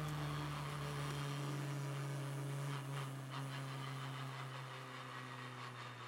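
Rally car engine heard from inside the car, holding a steady drone that sinks slightly in pitch as it eases off.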